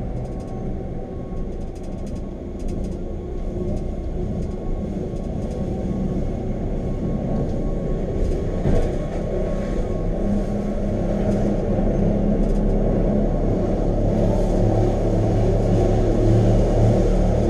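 Electric rack-railway train of the Wengernalp line running, a steady rumble with a low motor hum that grows gradually louder.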